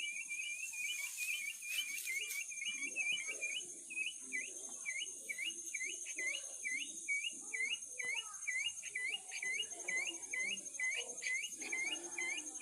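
Chick peeping over and over, about three short peeps a second, over a steady high insect drone.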